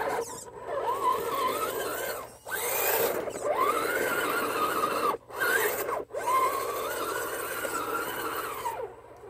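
RC rock crawler's Novak 55-turn brushed electric motor and geared drivetrain whining under throttle on 3S LiPo power. It comes in several pulls, each rising in pitch as it starts and dropping as it stops, with brief pauses between, as the truck crawls slowly over rocks.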